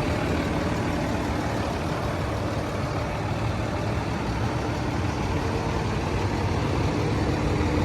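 2015 Ford F-750's 6.7-litre Cummins diesel engine idling steadily.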